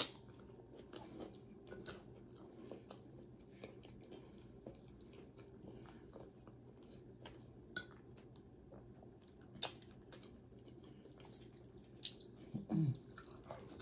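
A person chewing food with her mouth close to the microphone: faint, wet chewing with scattered small clicks, and one sharper click about ten seconds in. A short hummed vocal sound comes near the end.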